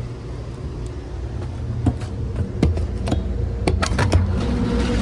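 Passenger train car running, a steady low rumble, with a run of sharp clicks and knocks from about two seconds in.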